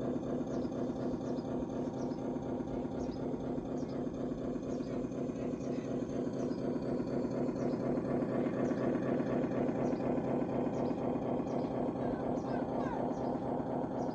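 Radio-controlled construction vehicle's electric drive and gearbox running steadily, with a short high chirp repeating about every half second to second.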